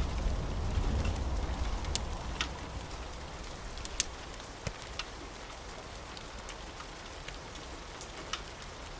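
Steady rain falling on a surface, with the low tail of a thunder rumble dying away over the first few seconds. Scattered sharp ticks of drops or crackles sound throughout.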